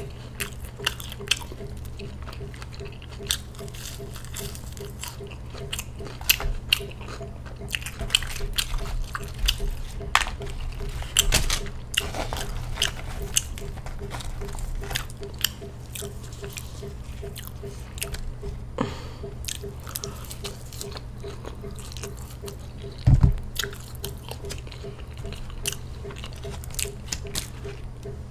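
Close-miked chewing and biting, with many small crunchy clicks, over the steady hum of a loud room air conditioner. A single heavy thump comes about two-thirds of the way through.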